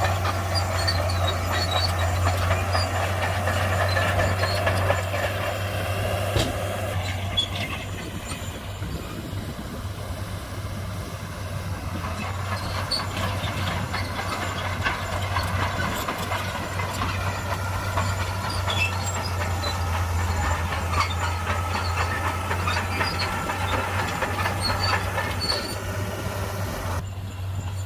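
Shantui crawler bulldozer's diesel engine running under load with a steady low hum, louder for the first several seconds and then easing, while its steel tracks squeak and clank as it pushes soil.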